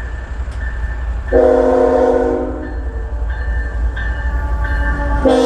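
Norfolk Southern freight locomotive's multi-note air horn sounding two blasts, the first about a second in and the second starting near the end, over a steady low rumble.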